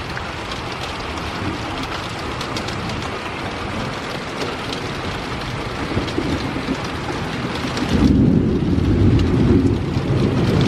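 Heavy rain falling in a steady patter of drops. About eight seconds in the hiss of the rain drops away and a loud low rumble takes over.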